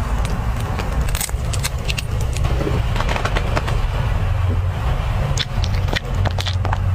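A dog eating, with scattered sharp clicks and crunches of its chewing, over a steady low rumble.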